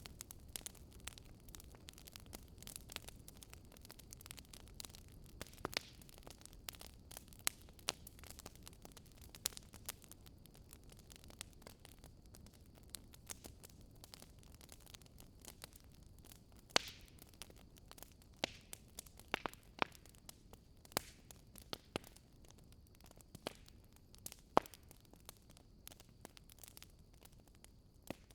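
Wood fire crackling: irregular sharp pops and snaps, some much louder than others, over a faint low hiss of burning.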